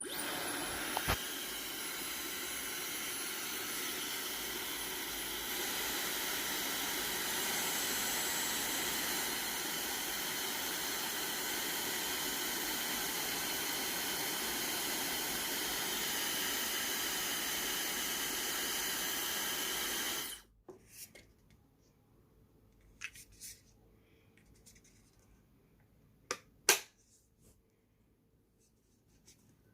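Dyson hair dryer running: a steady rush of air over a high motor whine. It gets slightly louder about five seconds in and is switched off about twenty seconds in, followed by a few faint clicks.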